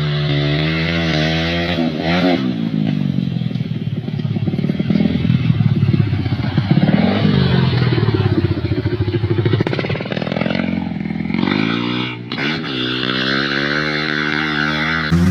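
Dirt bike engine revving up and down repeatedly as it is ridden, its pitch climbing and falling with the throttle and gear changes, with a brief dip about twelve seconds in.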